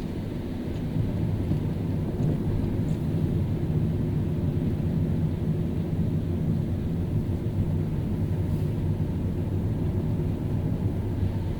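Car driving on a rain-wet road: a steady low rumble of engine and tyres with a faint hiss of spray, a little louder from about a second in.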